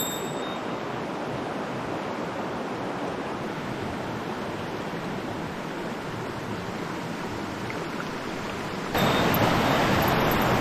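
Mountain stream water rushing steadily over rocks, turning suddenly louder about nine seconds in.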